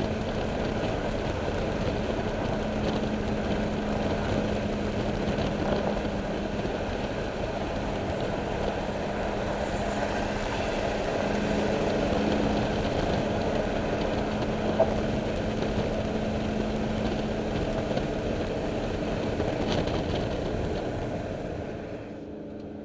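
Supercharged 5.4-litre V8 of a Ford SVT F-150 Lightning (Eaton supercharger) running at a steady cruise with a constant drone and no hard acceleration, easing off slightly near the end.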